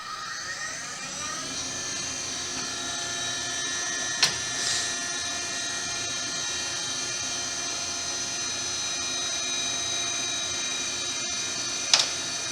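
Brown & Sharpe 814U universal grinder starting up: its motor spins up over the first second or two, then runs at speed with a steady whine of several tones. A sharp click sounds about four seconds in and another near the end.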